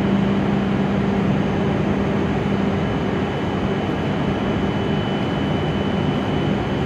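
Steady hum of an E7 series Shinkansen train standing at the platform: a continuous low drone with a fainter high whine over a bed of noise.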